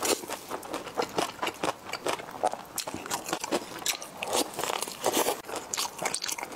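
Close-up eating sounds of a mouth biting and chewing braised intestine coated in chili oil: a rapid, irregular run of wet clicks and smacks.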